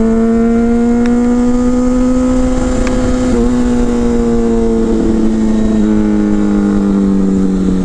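Motorcycle engine held at steady cruising revs while riding. The drone rises a little over the first few seconds, then slowly eases down, with a low rushing noise underneath.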